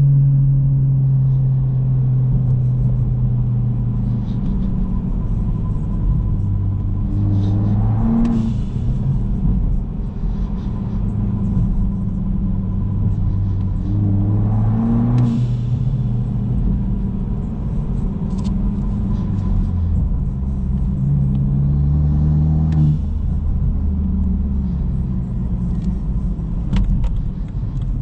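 BMW 114i's turbocharged 1.6-litre N13 four-cylinder pulling through the gears, heard from inside the cabin, its pitch climbing in each gear. Three times, about seven seconds apart, the Turbosmart blow-off valve vents with a short whoosh as the throttle is lifted for a gear change.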